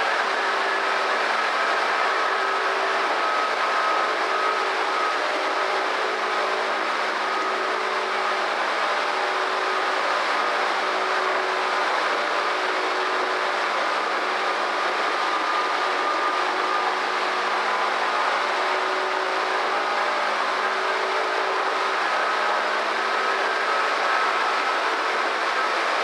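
Electric commuter train running at a steady speed, heard from inside the leading car: an even rumble of wheels on rail with a few steady humming tones over it.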